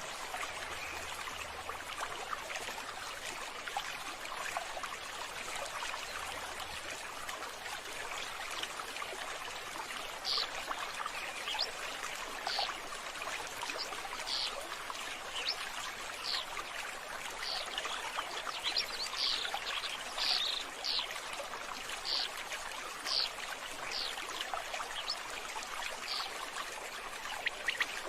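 Water running and trickling steadily, with short high chirps, likely birds, repeating from about ten seconds in.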